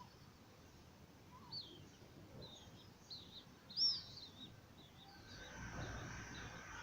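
Small birds chirping, a string of short high calls with the loudest about four seconds in. Near the end a steady rushing noise with a faint held tone swells in.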